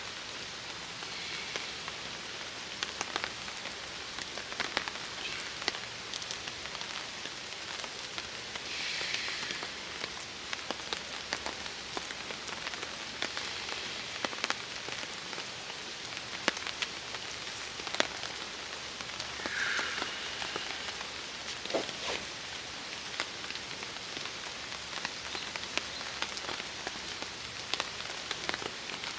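Steady rain falling on a tarp shelter, with many sharp ticks scattered throughout and a few brief louder swells.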